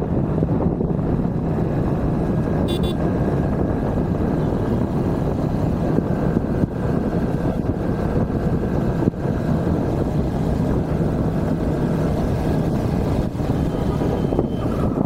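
Steady low rumble of a vehicle on the move, with a short high-pitched beep about three seconds in.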